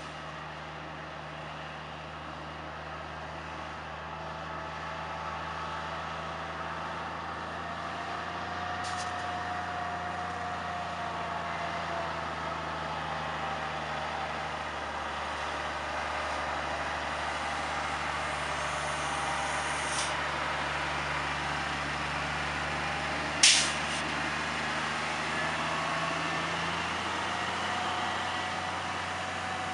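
Cummins diesel engine of a 1985 International 2375 truck running steadily, with a wavering whine above its hum and the sound growing gradually louder. A single sharp click comes about two-thirds of the way in.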